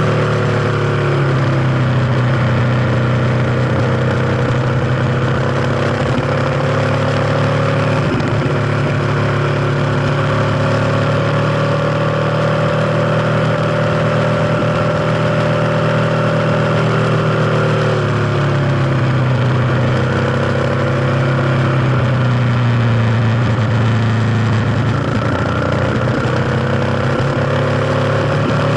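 Kawasaki KLX250's single-cylinder four-stroke engine running on the move, over a steady hiss. Its engine speed falls a couple of seconds in, holds, dips again about two-thirds of the way through, then climbs near the end.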